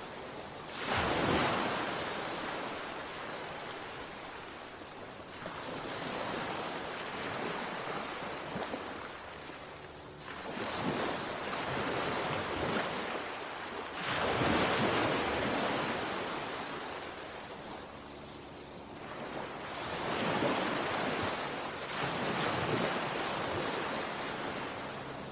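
Calm sea waves washing onto a shore, rising and falling in slow surges about every four to five seconds.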